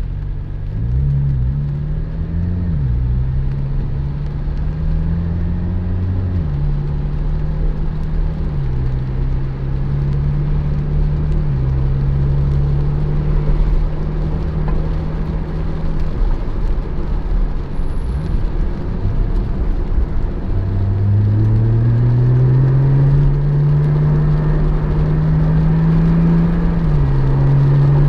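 Porsche 718 Spyder's 4.0-litre flat-six engine pulling under acceleration over a steady rumble of road noise. Its note climbs and then drops at each gear change, several times, with one long rising pull in the second half.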